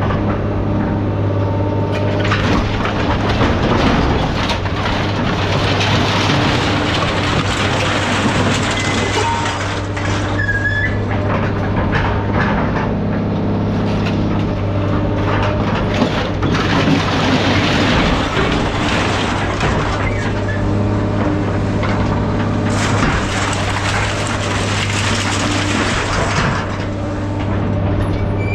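Engine of a tracked scrap-handling machine with a claw running steadily with a low drone, while scrap metal grinds and clatters in waves as it is moved.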